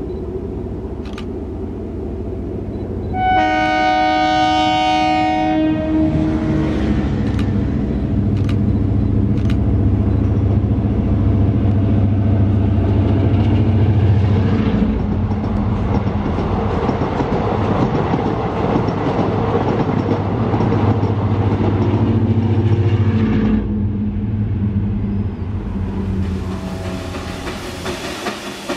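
A DEMU (diesel-electric multiple unit) passenger train sounds its horn for about two seconds, then runs past with a loud rumble of engine and wheels that peaks as the coaches go by and drops off suddenly about 24 seconds in.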